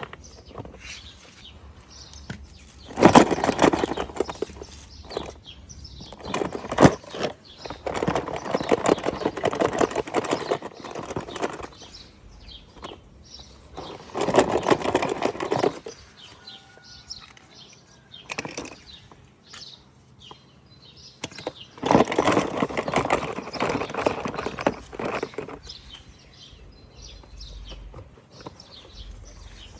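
Toy packaging being handled and opened: crinkling and rustling in several bursts of a few seconds each, with quieter handling sounds between.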